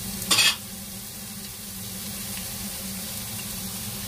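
Sliced onion, ginger and garlic sizzling steadily in hot oil in a pot. A short loud noise comes about a third of a second in.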